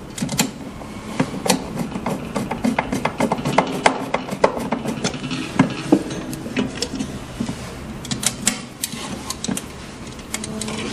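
A screwdriver driving a screw back into the cover of a sublimation vacuum heat press: a rapid, irregular run of small clicks.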